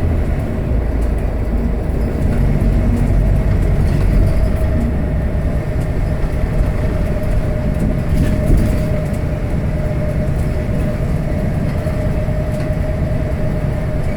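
Scania K320HB city bus heard from inside the cabin while under way: a steady low rumble of its diesel engine and running gear, with a steady whine held at one pitch over it.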